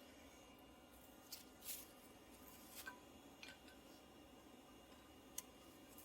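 Near silence: faint background hiss with a few faint scattered clicks.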